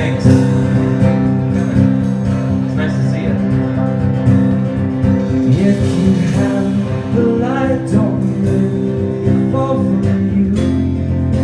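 Live rock band playing, with electric guitar to the fore over bass, keyboard and drums.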